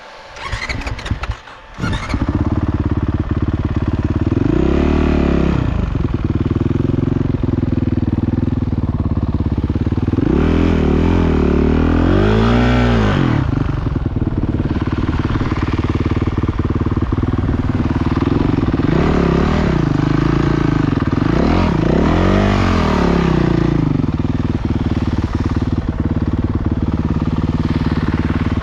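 Motocross motorcycle engine, running steadily after a few brief knocks in the first two seconds. The rider blips the throttle into rising-and-falling revs several times, about 5 seconds in, twice between 10 and 13 seconds, and again between 19 and 23 seconds.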